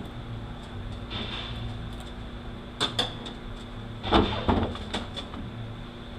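A few light knocks and clicks of hand tools on transmission parts, two close together about three seconds in and another few a little after four seconds, as the disassembly of a U760E automatic transmission goes on.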